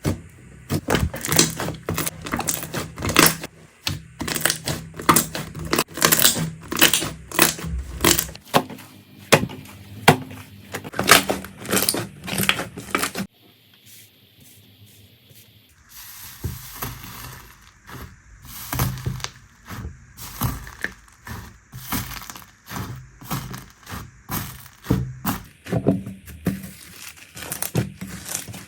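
Slime being squeezed and pressed by hand: a dense run of sharp crackling clicks and pops, with a quieter pause a little past the middle before the crackling resumes.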